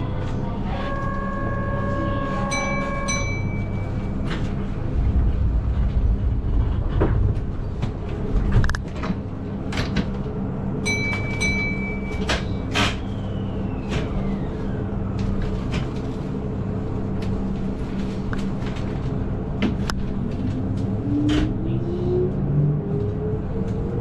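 Keihan 8000 series electric train running, heard from the cab: a steady rumble with rail clicks and knocks. Two short electronic tone signals sound, a held chord about a second in and a beep about 11 seconds in. From about 20 seconds a rising whine builds as the train accelerates.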